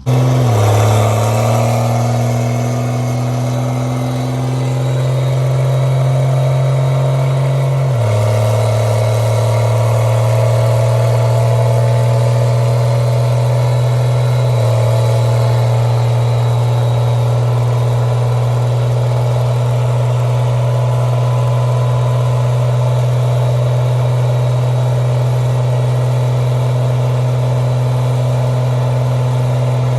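Truck engine held at high, steady revs, its pitch stepping to a new level about eight seconds in and again about fifteen seconds in.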